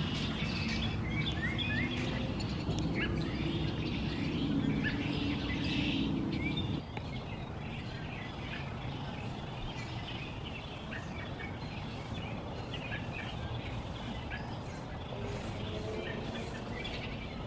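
Small birds chirping over steady outdoor background noise. A steady low hum underneath cuts off abruptly about seven seconds in.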